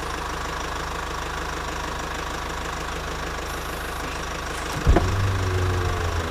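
An engine running steadily at idle with a low, even hum. Near the end there is a sudden thump, after which the hum is louder.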